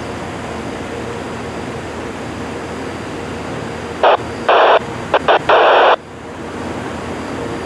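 Radio scanner hissing with open static, then a cluster of short, loud bursts of static about four to six seconds in that cut off sharply, as transmissions key up and drop.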